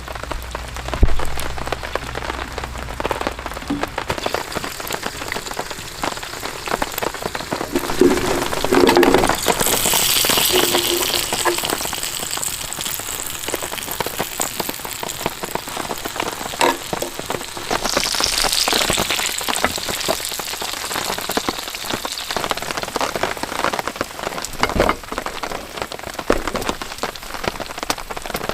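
Heavy rain falling, many individual drops striking a surface, with two louder hissing spells about ten and eighteen seconds in.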